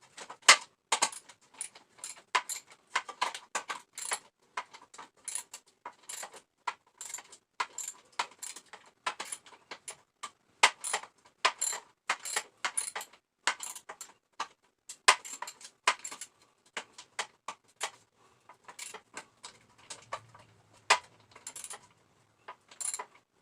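Wrench clicking and clinking on metal as a nut is tightened: a long run of short, sharp metallic clicks, a few a second and unevenly spaced.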